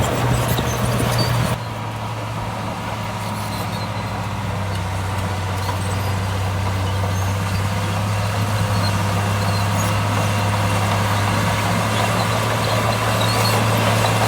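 Heavy diesel earthmoving machine's engine running steadily; its note and level drop slightly about a second and a half in, then it holds an even hum.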